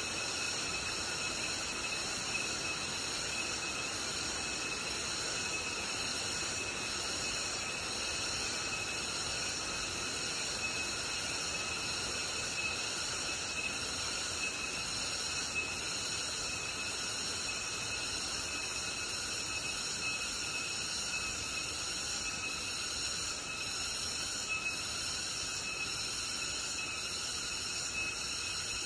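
Tropical rainforest insect chorus: many crickets and other insects calling at once, a steady high buzz at several pitches that runs on without a break.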